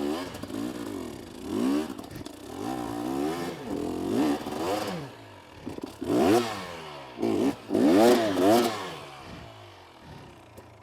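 KTM 250SX two-stroke dirt bike engine revving up and down in repeated bursts, its pitch rising and falling several times as the bike struggles for traction on a steep rocky climb.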